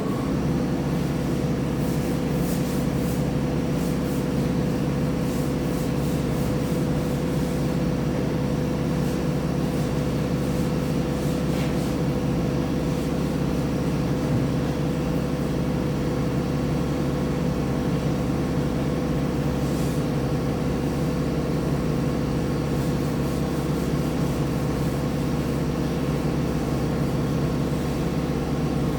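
Steady, unbroken drone of a workshop machine's electric motor running.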